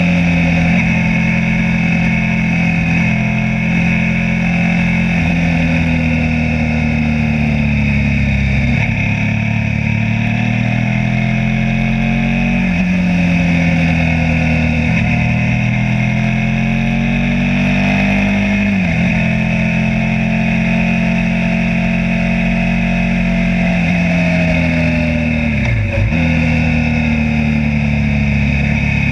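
Suzuki SV motorcycle's V-twin engine heard from onboard, its revs rising and falling repeatedly with several abrupt jumps in pitch as the rider works the throttle and gears through bends. A sharp drop in revs comes near the end.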